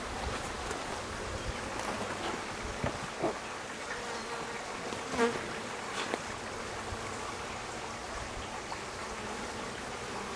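Many honeybees buzzing steadily around an opened top-bar hive, with a couple of brief louder sounds about three and five seconds in.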